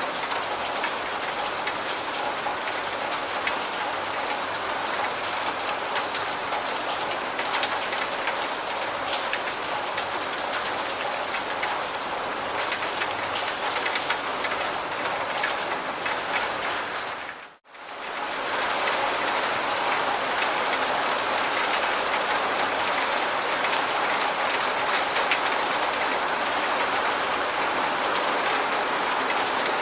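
Steady rain falling, with many separate drop hits through the constant wash. The sound dips to near silence for a moment a little past halfway, then comes straight back.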